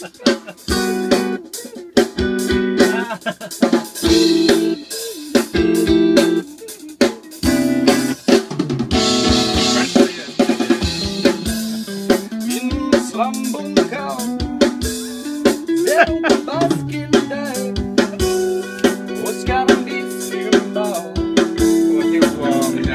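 A band playing: guitar chords and bending lead notes over a drum kit with snare hits.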